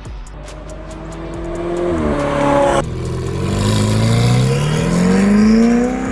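Ferrari 488's twin-turbo V8, breathing through an aftermarket IPE exhaust, accelerating hard. The pitch rises steadily, breaks off at an upshift about three seconds in, then climbs again and drops at another shift near the end.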